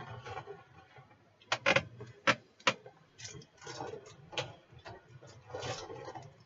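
Items and packaging being handled during an unboxing: a few sharp, irregular clicks and taps, then soft rustling.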